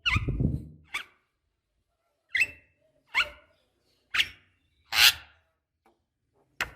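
Javan myna calling: a longer rough call, then a string of short, sharp notes about a second apart, several sweeping down in pitch, the loudest and harshest just after the middle.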